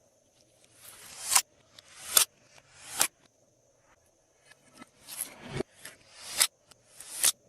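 Glossy slime being stretched and squished by hand: a wet crackle builds and ends in a sharp pop as an air pocket bursts, about six times, with a short lull in the middle.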